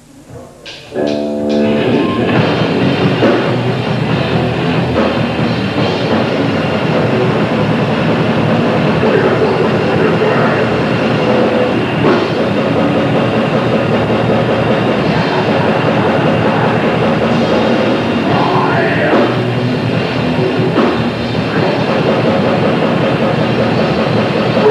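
Grindcore band playing live: a few sharp clicks and a held guitar chord about a second in, then the full band comes in loud with distorted guitars, bass and drums, and keeps on.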